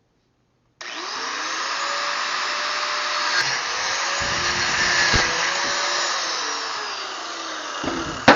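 Angle grinder with a thin cut-off (zip) disc starting up about a second in and cutting through metal pipe, its whine dipping and recovering as the disc bites. A sharp knock comes just before the end.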